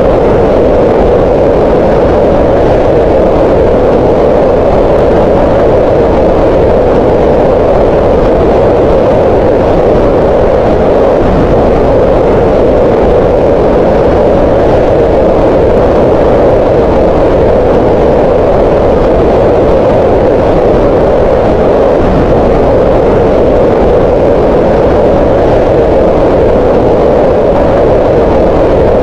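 Green noise: steady, unchanging synthetic noise with its energy centred around 500 Hz, a mid-pitched hiss with little top end.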